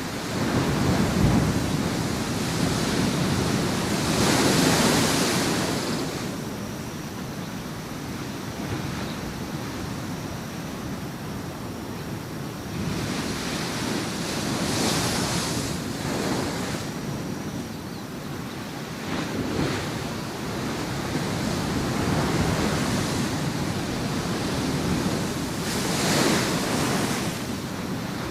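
Waves breaking on a shore. Surf surges in and washes back in irregular swells every several seconds, the biggest about five seconds in and near the end.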